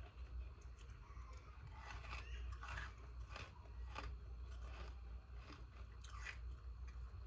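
Frozen ice pieces being bitten and chewed close to the microphone: irregular crisp crunches about every half second, over a steady low hum.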